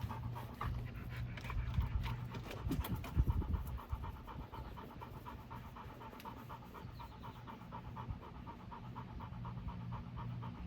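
A dog panting steadily in a quick, even rhythm.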